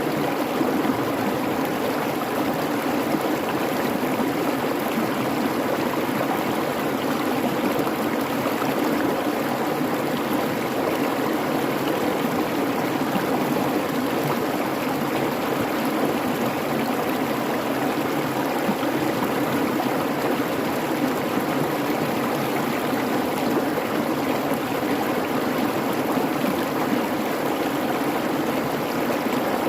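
Shallow creek babbling steadily over rocks, an even rushing water sound with no breaks.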